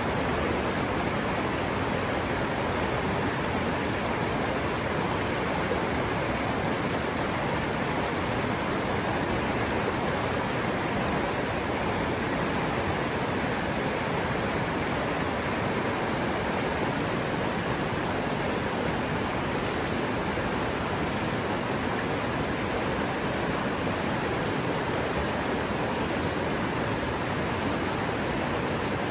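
River water rushing steadily over rocks, a constant, even rush with no changes.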